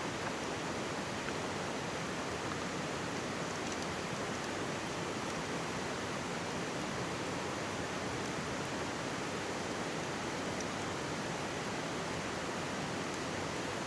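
Mountain stream rushing steadily close by, with a few faint crackles from a wood campfire.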